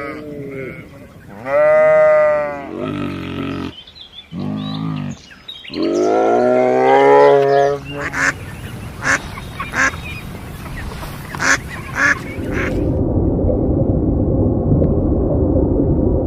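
A string of different animal calls: several separate pitched cries in the first half, the loudest about two seconds in and a long wavering one soon after. Then come scattered sharp clicks, and a steady rushing noise fills the last few seconds.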